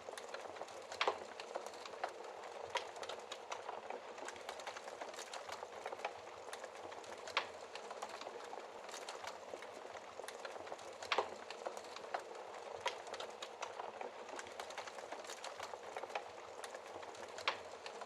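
Wood fire crackling in a fireplace: a constant fine crackle with frequent small clicks and a few louder, sharper pops scattered through.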